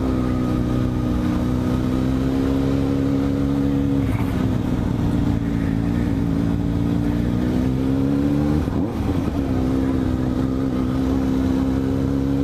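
Motorcycle engine running at a steady low cruising speed, heard from on the bike. Its note drops slightly about four seconds in and falters briefly around eight and a half seconds before settling back to a steady pitch.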